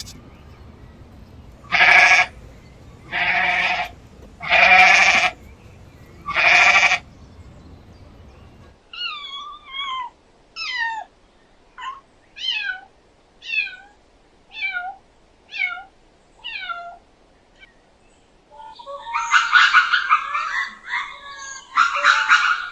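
A goat bleating four times, each bleat loud and drawn out. Then comes a run of about eight short, high calls, each falling in pitch. Near the end a busy cluster of harsh animal calls starts.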